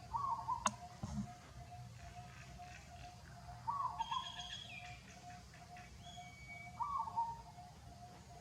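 Birds calling outdoors: a short, falling two-part call repeated about every three seconds over a steady pulsing note several times a second, with a few higher chirps in the middle. A single sharp click comes just under a second in.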